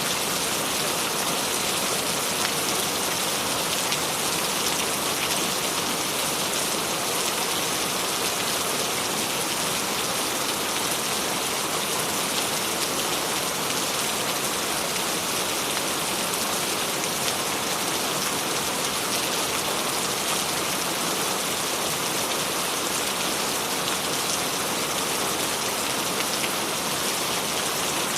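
Steady rain falling and pattering on a surface, an even hiss with many fine drop ticks and no let-up.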